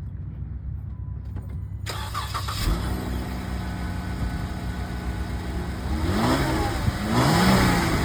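Jeep Wrangler engine running through its stock exhaust, blipped twice near the end with quick rising-and-falling revs. It sounds like a lawnmower.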